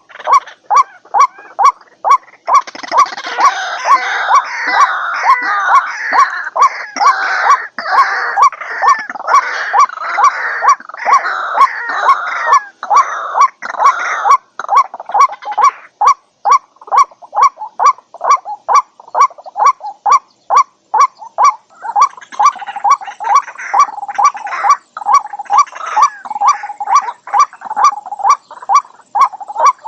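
White-breasted waterhen calling: a steady, monotonous series of short "kwak" notes, about two or three a second. Denser bouts of harsh, overlapping calls come over it from about two to fourteen seconds in and again near the end.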